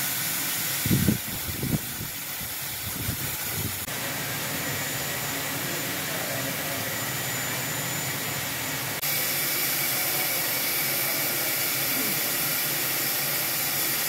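Steam hissing steadily from a MÁV class 424 steam locomotive, with a few brief low thumps about a second in.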